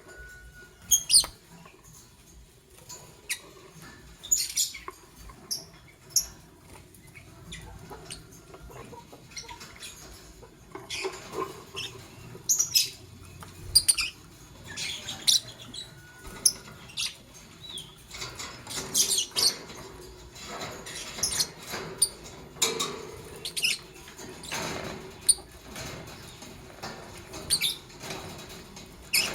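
Lovebirds chirping: short, sharp, high squeaks at irregular intervals, several every few seconds.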